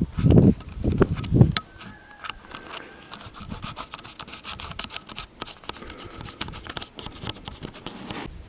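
A few handling thumps, then a long run of scratchy rubbing and clicking as gasket sheet material is worked by hand with a tool.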